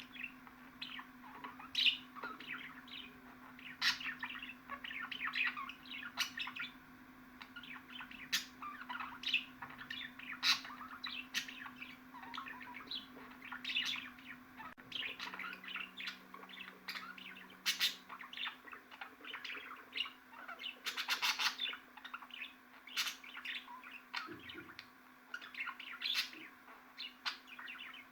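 Budgerigar chattering: rapid chirps and warbling notes with occasional squawks, growing into a dense burst of chatter about two-thirds of the way through. A steady low hum runs underneath.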